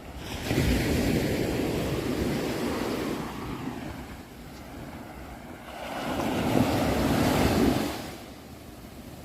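Sea waves breaking twice, each wash swelling up and fading away over a few seconds.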